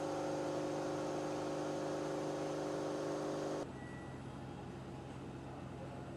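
Steady hum of factory machinery with several held tones, which drops abruptly to a quieter, lower hum about three and a half seconds in.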